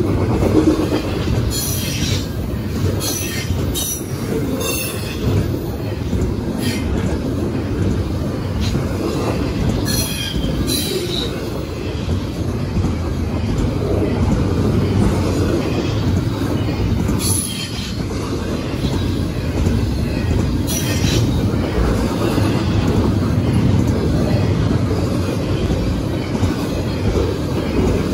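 Double-stack intermodal well cars of a freight train rolling past: a steady rumble of steel wheels on rail, with short high wheel squeals now and then, several in the first few seconds and more around ten seconds in.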